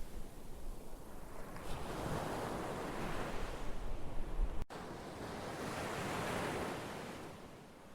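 Ocean surf: waves washing in, the noise swelling and fading twice. A little past halfway there is a sudden break, and the deep rumble underneath cuts out.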